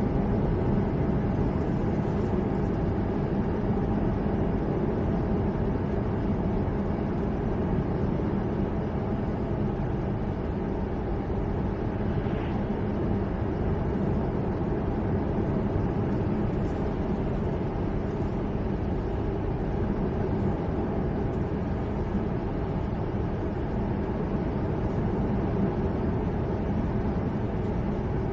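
Steady running noise of a car driving along a road, a constant rumble of tyres and engine with no change in pace.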